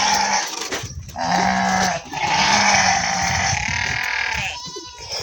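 Goats bleating: three long calls one after another, then a short wavering bleat near the end.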